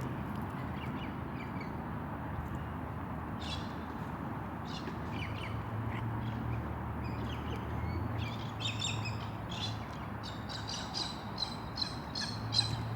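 Birds chirping and squawking with short, high calls, a few scattered at first, then coming in quick runs in the second half.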